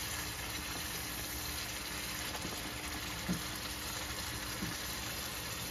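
Yogurt-marinated chicken sizzling in a kadai over a high flame, with two faint knocks in the second half.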